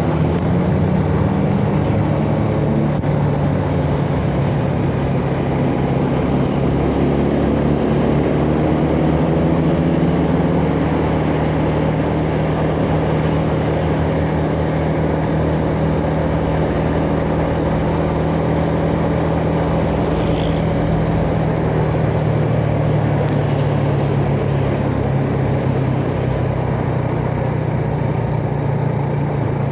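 Yamaha Jupiter Z underbone motorcycle's single-cylinder four-stroke engine running steadily on the move, its pitch drifting gently up and down with small throttle changes, over road noise.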